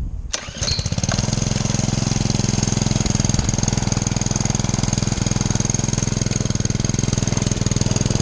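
Minibike's 5 hp Honda single-cylinder four-stroke engine catching and starting under a second in, then running steadily at an even idle.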